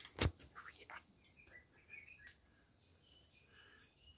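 Quiet outdoor background with a few faint bird chirps and a single sharp click about a quarter second in.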